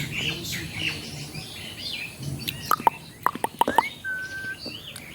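Ringneck parrots chirping rapidly, with a quick run of sharp clicks about three seconds in and a short steady whistle soon after.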